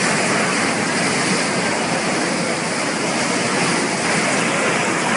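Canal water from the Narmada rushing and churning in a steady, dense noise.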